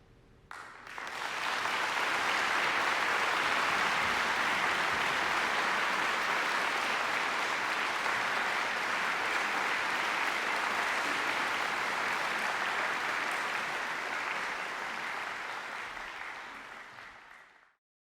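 Audience applauding after a choral performance. The clapping starts with a few claps about half a second in, quickly swells to full, steady applause, then fades out and stops just before the end.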